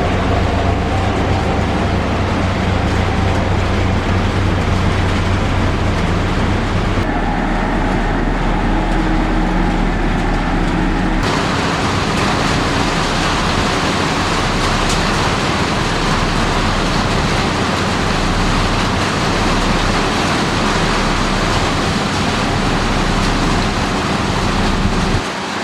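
Heavy diesel construction machinery running steadily, in three stretches with abrupt changes about 7 seconds and 11 seconds in.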